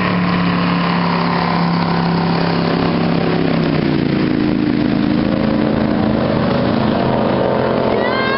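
Motorboat engine running steadily; its pitch drops slightly about halfway through as it slows.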